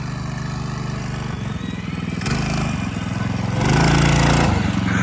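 Minibike's small engine running, its note rising from about two seconds in and loudest for about a second near the four-second mark before easing off.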